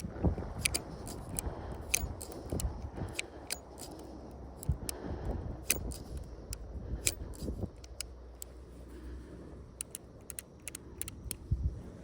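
Colt 1877 Lightning double-action revolver being handled: a string of irregular sharp metallic clicks from its mechanism and parts, over a low background rumble.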